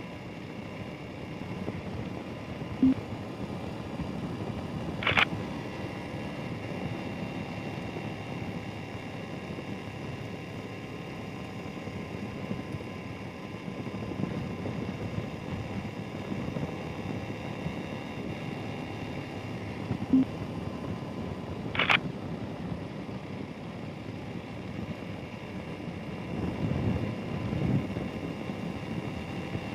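Royal Enfield Himalayan's single-cylinder engine running at a steady cruise, with wind and road noise heard from on the bike. There are short, sharp sounds about three seconds in and again about twenty seconds in, each followed a couple of seconds later by a brief high click.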